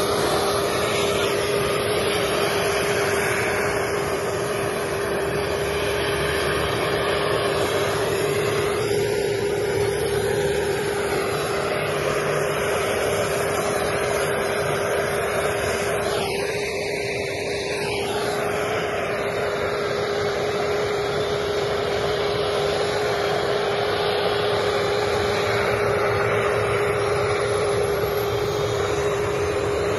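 Helicopter running steadily: an even rushing engine noise with a constant mid-pitched hum.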